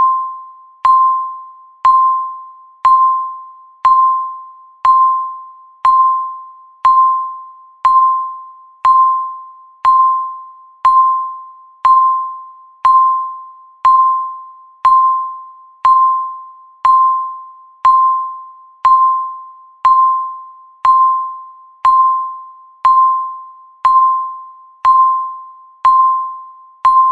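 Countdown timer beeping once a second: a short, high electronic beep that starts sharply and fades quickly, repeated evenly at the same pitch.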